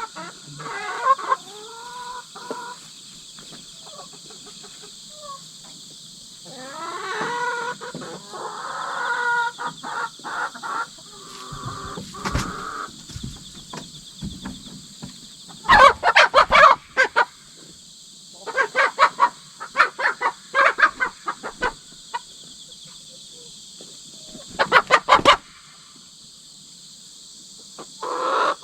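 Hens calling and clucking: wavering calls near the start and around 7 to 10 seconds in, then loud runs of rapid clucks around the middle, again a few seconds later, and near the end. Underneath runs a steady high chorus of insects.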